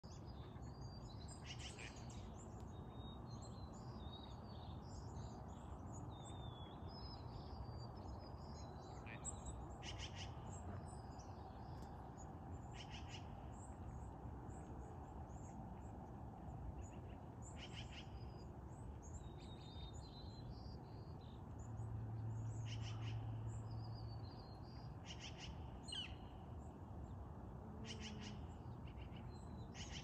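Birds calling: scattered high chirps and, every few seconds, a short rapid rattling call, over a steady low background rumble. A low hum swells for about two seconds past the middle.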